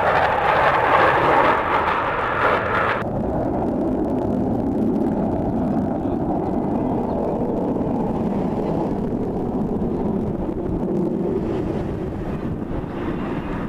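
Aircraft engine noise at an air show: a loud roar that cuts off abruptly about three seconds in, leaving a steady lower rumble with wind on the microphone.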